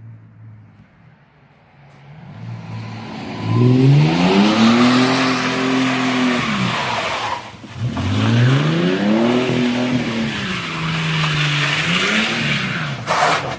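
A Ford EL Falcon's engine revving hard through a cat-back performance exhaust while the tyres squeal in two long skids. Each time the engine note climbs, holds and falls away. A brief sharp noise comes near the end.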